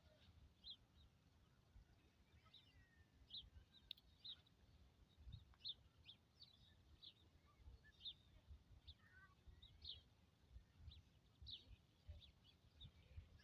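Faint small birds chirping, short high notes repeating every half-second or so throughout, over a faint uneven low rumble.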